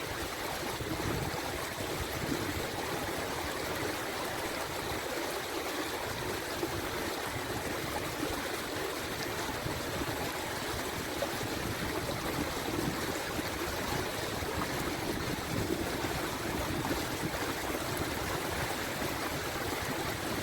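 Steady rushing noise with no rhythm or pitch, like flowing water, holding an even level throughout.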